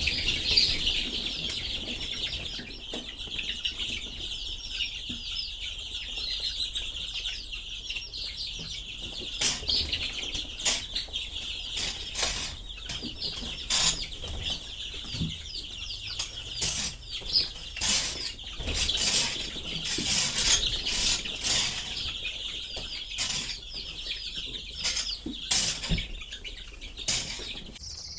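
A flock of about 200 two-week-old broiler chicks peeping together as a steady chorus. From about a third of the way in, many short sharp scrapes and rustles cut through it.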